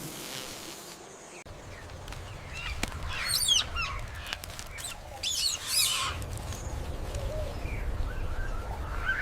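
Birds calling: two flurries of quick, high, wavering calls about three and five seconds in, with fainter calls near the end.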